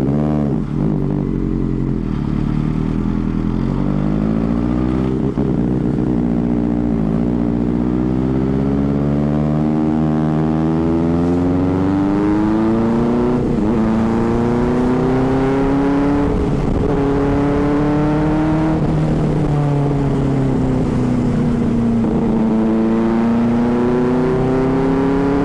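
Superbike engine running under way, its note climbing slowly as it accelerates and then dropping and climbing again several times as the rider eases off and opens the throttle.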